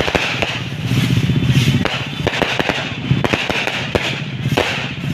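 Firecrackers and fireworks crackling and popping in quick, irregular cracks, over a steady low rumble.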